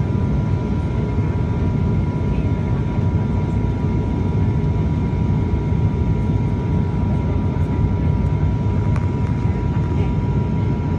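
Cabin noise of an ATR 72 turboprop airliner in flight: a steady deep drone from the propellers and engines, with a steady high whine running over it.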